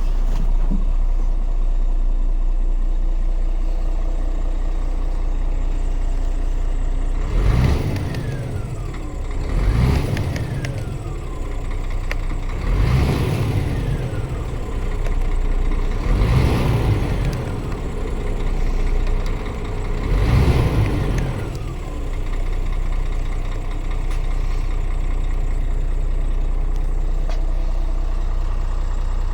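Scania R450 truck's inline-six diesel idling, revved in five short blips about three seconds apart, each falling back to idle, then idling steadily again.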